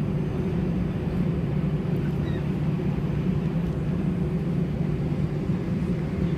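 Steady low drone of an Airbus A320-211's CFM56 engines at low taxi power, heard inside the passenger cabin before the takeoff roll.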